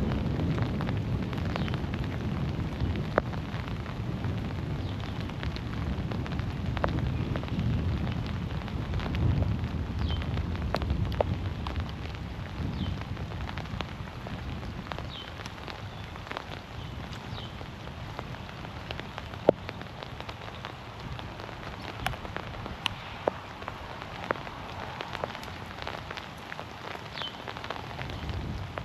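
Heavy rain falling in a forest, a steady patter with individual drops tapping sharply, and a low rumble that eases off about halfway through.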